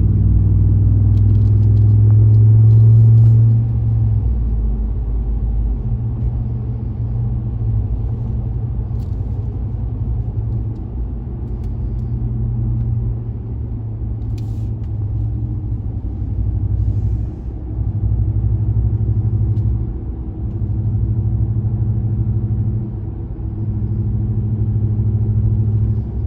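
5.7-litre HEMI V8 exhaust of a Ram 1500 Rebel with the muffler and resonator deleted, a low drone heard from inside the cab while driving. It is loudest for the first few seconds under throttle, then eases to a steadier cruising drone with small rises and falls.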